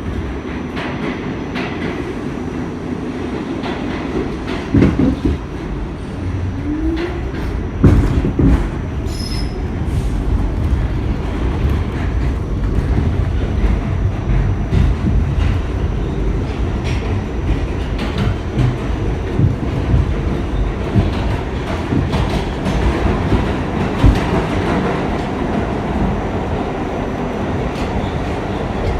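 R46 subway car running on the track: a steady rumble with wheels clattering over rail joints. There are a few sharp knocks about five and eight seconds in, and a brief rising squeal around seven seconds.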